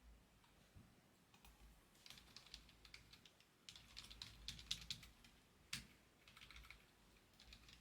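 Quiet typing on a computer keyboard: a run of quick, irregular key clicks with a few louder single taps.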